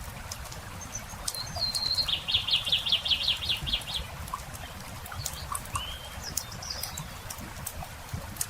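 Wood campfire crackling with scattered sharp pops. A songbird sings a held whistled note followed by a fast trill of about a dozen notes, about one to four seconds in, and a few short chirps follow.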